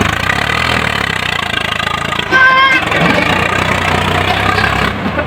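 Tractor diesel engine running steadily. About halfway through, a short steady high tone sounds over it and is the loudest moment.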